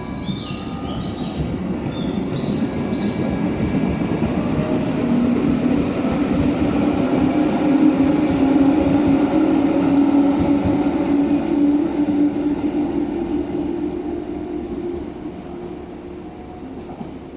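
Electric commuter train running past the station platform, its wheel and motor noise building to a peak about halfway through and fading away near the end, with a steady low hum.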